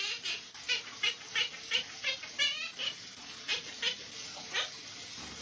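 Parrot making a quick series of short, high, squeaky chirps, about three a second, with a warbling call about halfway through, a short pause after it, then a few more chirps.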